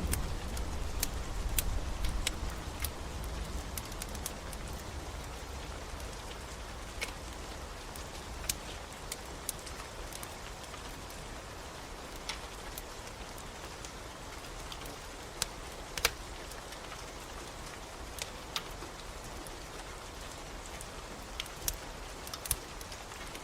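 Steady rain with a wood fire crackling over it, sharp pops coming at irregular intervals, a few standing out louder. A low rumble dies away over the first few seconds.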